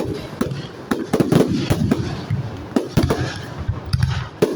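Aerial fireworks going off: a rapid, irregular run of sharp bangs and crackles, with a rumble between them.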